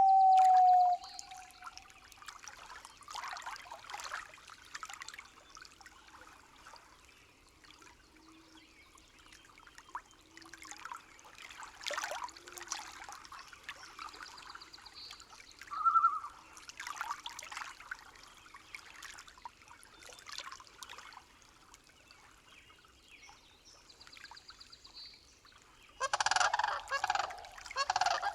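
Forest nature-sound ambience: faint scattered crackles and short bird calls, opening with a steady whistled tone that ends about a second in. About two seconds before the end comes a loud clamour of many birds calling together.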